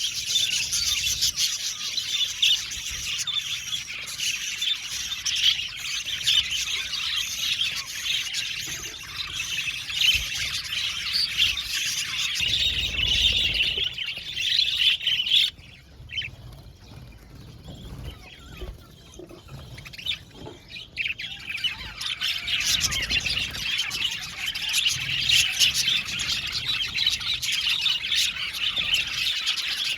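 A flock of budgerigars chattering and chirping in a dense, continuous twitter. About halfway through the chatter drops off suddenly and stays faint for several seconds, then builds back up to full strength.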